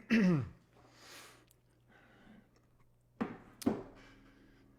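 A voice gives a short falling groan at the start, followed by quiet breathy noises and two sharp clicks a little after three seconds in, over a faint steady hum.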